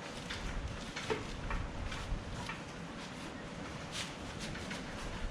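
Scattered light knocks, clicks and scrapes from a lathe's shipping crate being taken apart, its screws and panels being worked loose, with a sharper click about four seconds in.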